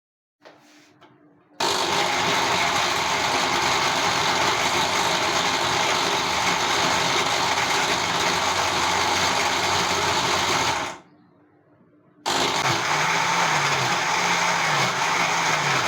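Electric mixer grinder running, grinding ginger and garlic with a little oil, water and salt into a thick paste. It runs steadily for about nine seconds, stops for about a second, then starts again for a few more seconds.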